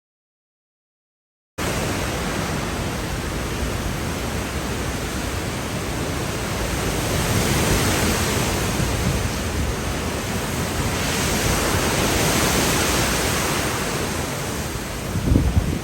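Hurricane wind blowing in gusts: a loud, even rushing noise that begins after a second and a half of silence and swells twice. A short low thump comes near the end.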